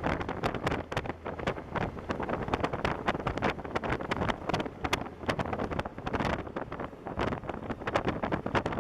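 Wind buffeting the microphone of a camera on a motorcycle moving at highway speed, in irregular gusts over a steady rumble of road and engine noise.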